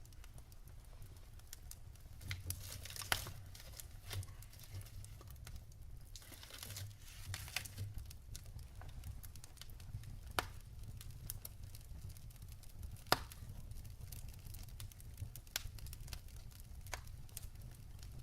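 Wood logs burning in a fireplace, crackling with irregular sharp pops, the loudest about three, ten and thirteen seconds in, and a brief stretch of hissing around the middle.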